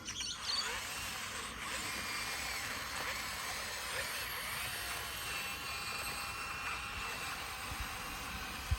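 Bulldozer at work, a steady high mechanical whine with wavering squeals, starting abruptly at the beginning.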